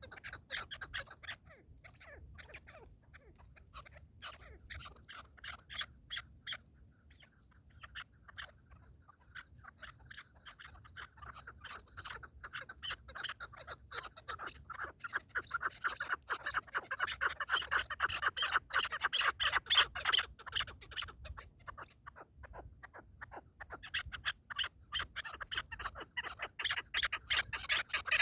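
Partridges calling: long runs of rapid clucking notes that build up to a loud stretch about two-thirds of the way through, drop away, then build again near the end.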